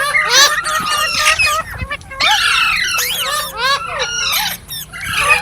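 Indian ringneck parrot chattering: bursts of rapid squawks and whistled chirps that sweep up and down in pitch, with short breaks between them.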